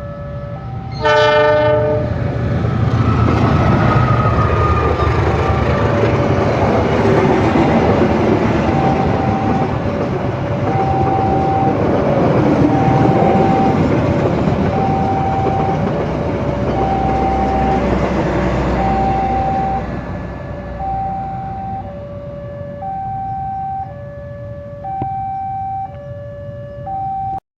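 A diesel-hauled train, led by a CC206 locomotive, sounds one short horn blast and then passes at speed with a loud rumble and wheel clatter that eases off after about twenty seconds. A two-note electronic warning signal keeps beeping alternately throughout, as at a level crossing.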